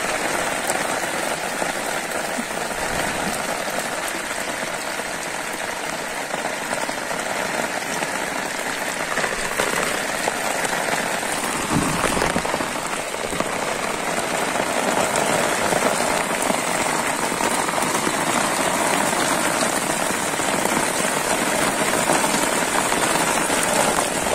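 Steady rain falling on shallow floodwater, an even hiss of drops striking the water surface. There is a brief dull thump about halfway through.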